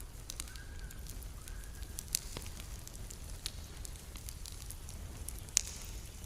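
Campfire wood crackling, with scattered sharp pops over a steady low rumble; two pops stand out, about two seconds in and near the end.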